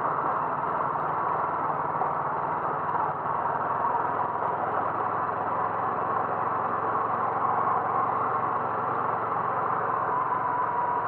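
A vehicle engine running steadily, a constant hum with no change in speed.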